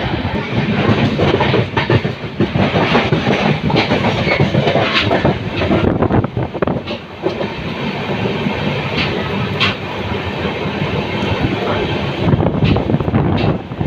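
Train in motion: a steady rumble of the carriage with irregular clacks of the wheels over the rail joints.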